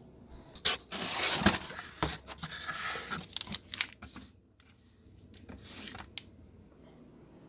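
Packaging being torn open and crinkled by hand in two rustling stretches, with a few sharp clicks and knocks.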